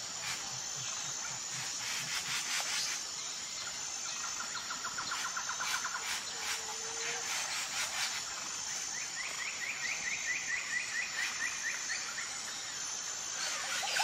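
Outdoor garden ambience: a bird gives a rapid trill about four seconds in, then a longer, higher trill from about nine seconds in until near the end, over a steady high-pitched hum and a few soft clicks.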